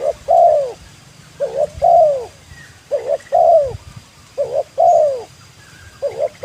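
Spotted dove cooing its repeated three-part call: two short notes and then a longer falling note, given about every second and a half, five times. A call like this is used to lure wild doves.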